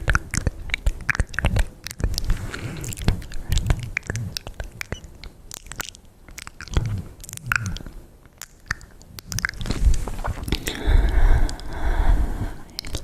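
Close-miked ASMR mouth sounds: rapid, irregular wet clicks and smacks.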